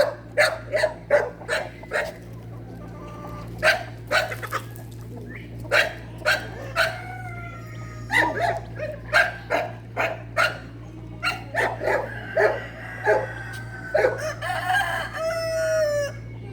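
Fowl calling over and over: many short clucks and squawks, with a longer drawn-out call near the end, over a steady low hum.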